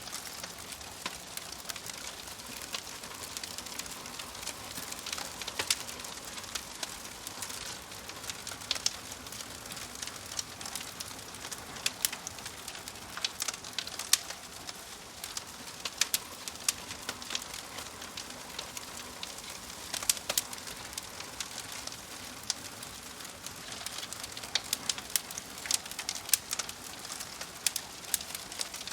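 Wood fire crackling in a fireplace: a steady soft hiss with irregular sharp pops and snaps from the burning logs, a few of them louder.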